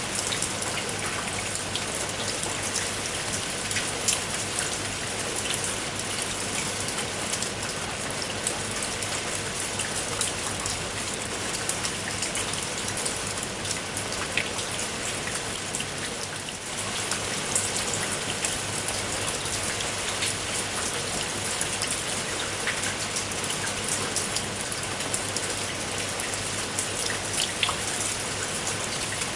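Steady rain, with many separate drops striking a surface. It eases for a moment about halfway through.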